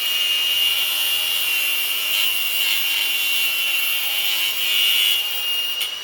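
A power tool's cutoff wheel cutting through a steel wire-rope cable, running steadily with a high whine and a gritty grinding hiss.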